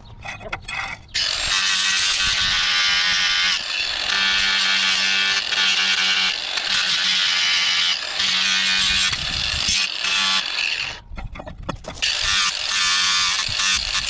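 Power grinder grinding rust off a steel crowbar: a loud, rasping whine of the wheel on the metal. It starts about a second in after a few clicks, dips briefly several times, and stops for about a second near the end before starting again.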